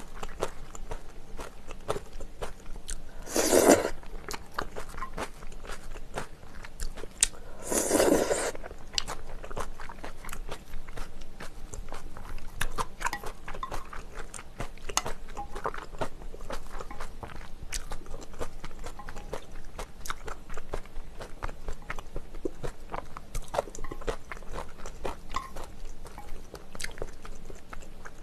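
Close-miked eating of spicy chicken: steady chewing and crunching full of small mouth clicks, with two louder, longer bursts about three and a half and eight seconds in.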